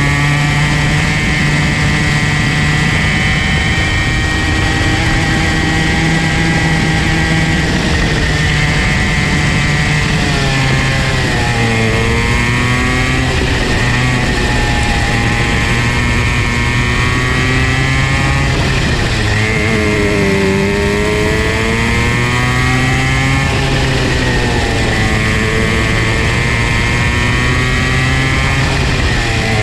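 50cc Comer C50 two-stroke kart engine running at high revs, its pitch mostly steady, dropping sharply twice (about a third and two-thirds of the way through) and climbing back as the kart slows for corners and accelerates out again.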